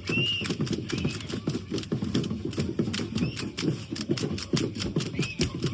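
Rhythmic clatter of a traditional dance troupe: many rapid clicks and rattles over repeated low thumping beats, with a few short high arching tones.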